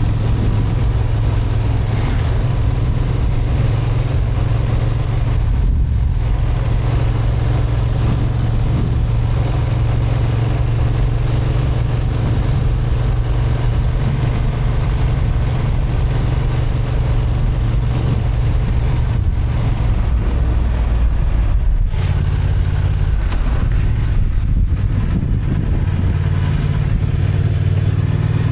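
Honda XL750 Transalp's 35 kW-restricted parallel-twin engine running under way, climbing steadily, with short breaks in the sound a few times.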